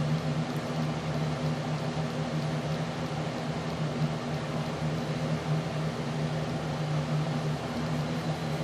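A steady low mechanical hum over a constant hiss, unchanging throughout.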